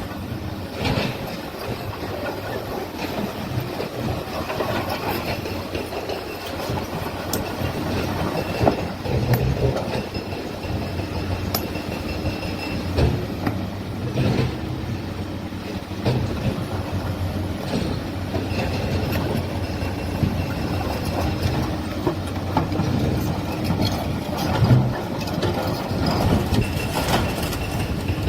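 Heavy machinery running steadily, with irregular metallic clanks and knocks over a continuous mechanical rumble.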